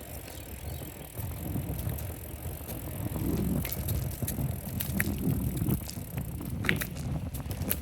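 Bicycle being ridden: a steady low rumble of riding noise with scattered sharp clicks and rattles from the bike, a few close together near the end.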